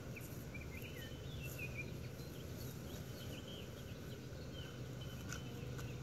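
A small songbird chirping in short, quick notes over a steady low hum.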